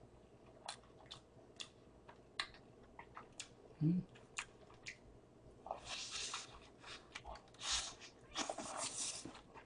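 Close-up mouth sounds of a person eating a burger. Small wet chewing clicks are scattered through the first half, with a brief hum near the middle. From about six seconds in come louder, noisier bites and chewing.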